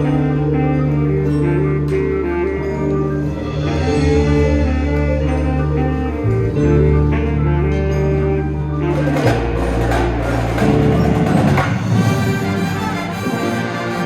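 Wind band with percussion playing: held low bass notes under moving melodic lines. About nine seconds in the texture thickens, with a noisy cymbal-like wash and busier percussion.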